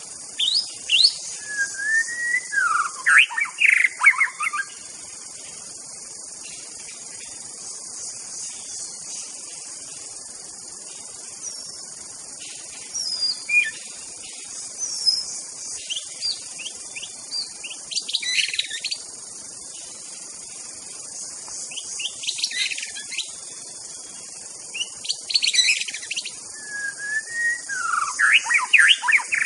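White-rumped shama (murai batu) singing in the wild: loud, varied phrases of gliding whistles and quick notes in bursts several seconds apart. A steady high insect drone runs underneath.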